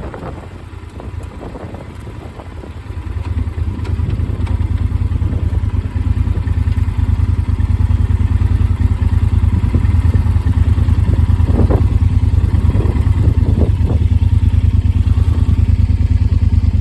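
Motorcycle engine running with a rapid low pulsing rumble, growing louder over the first several seconds and then holding steady.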